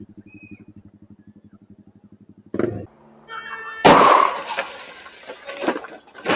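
A vehicle engine running with an even low pulsing, then a sudden loud crash about four seconds in, a collision impact with crunching noise that dies away, and another sharp bang near the end.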